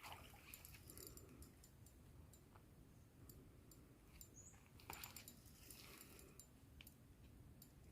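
Near silence: quiet ambience with faint, scattered clicks and a brief soft rustle about five seconds in.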